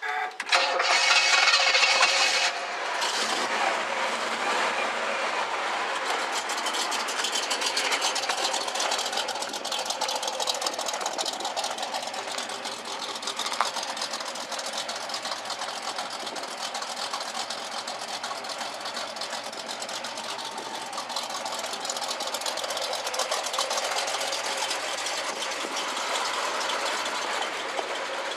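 1968 Chevrolet El Camino's 327 four-barrel V8 starting, louder for the first couple of seconds, then settling into a steady idle. The engine sounds pretty good.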